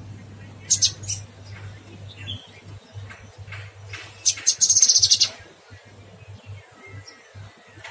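Cucak kinoy songbird singing: a few sharp, high notes about a second in, then a rapid burst of high, chattering notes lasting about a second near the middle.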